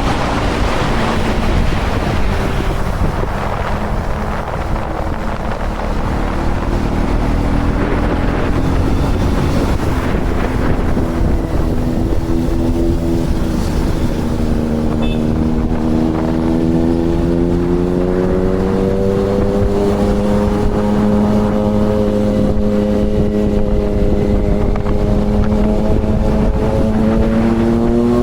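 KTM Duke 250 single-cylinder motorcycle engine running under way, with heavy wind noise on the microphone. The engine note is buried in the wind for the first few seconds, then rises slowly through the second half as the revs climb.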